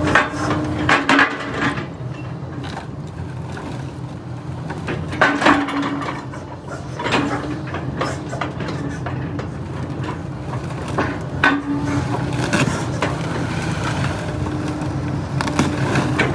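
A machine hums steadily while heavy handling knocks and creaks come every few seconds, as a load is shifted.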